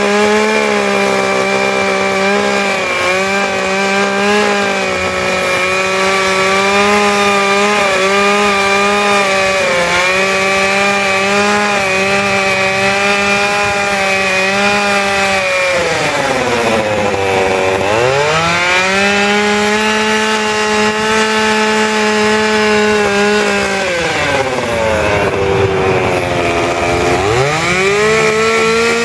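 Two-stroke chainsaw running at high revs while cutting wood. Twice, about halfway through and again near the end, the engine speed drops as the throttle is eased off, then revs back up.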